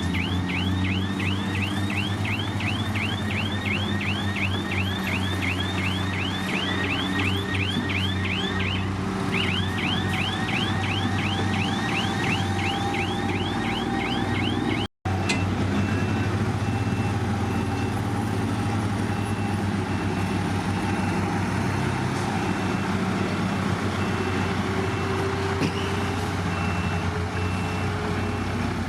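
Heavy earthmoving machine's diesel engine running steadily, with a warning alarm chirping rapidly, several chirps a second, for the first half. After a sudden break about halfway, the engine runs on with a faint steady beeping.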